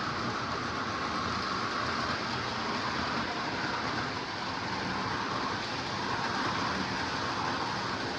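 Lionel O gauge toy trains running at speed on their track: a steady rolling rumble and motor hum that dips briefly about four seconds in.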